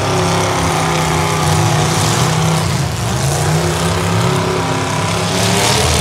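Demolition derby cars' engines running hard together, a loud steady engine drone whose pitch rises and falls as the drivers rev.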